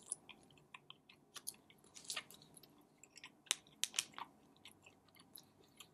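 A person biting into and chewing a soft, oily fish-cake-like snack: faint, irregular mouth clicks and smacks.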